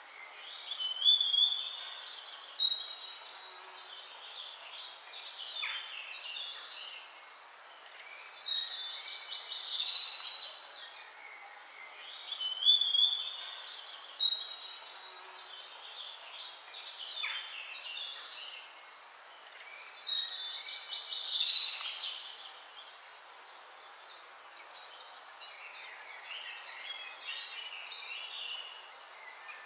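Wild birds singing. Four loud, high, trilling song phrases, each lasting about two seconds, come in bouts a few seconds apart over quieter chirping from other birds.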